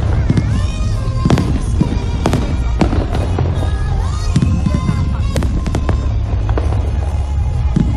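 Fireworks going off: repeated sharp bangs and cracks, a dozen or more at uneven intervals, over a steady low rumble, with music playing underneath.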